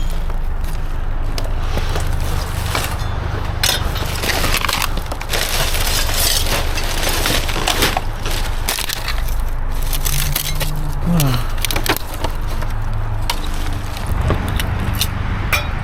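Dumpster debris being rummaged through and shifted: irregular crunching, clinking and knocking of broken material, over a steady low rumble.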